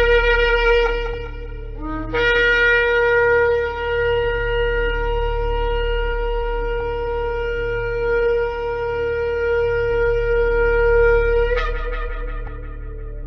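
Shofar (ram's horn) blowing: a blast ending about two seconds in, then one long held blast of about nine seconds that breaks upward in pitch near the end and dies away, over a low steady hum.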